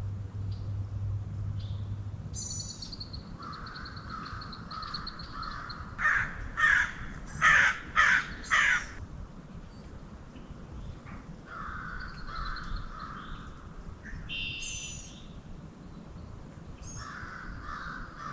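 A raven giving five loud, harsh caws in quick succession, about six seconds in. Smaller birds chirp and trill faintly around it.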